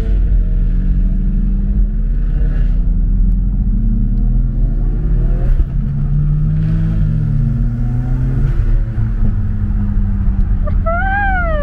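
Car engine running, its revs slowly rising and falling. Near the end a wavering siren starts, sweeping up and down several times.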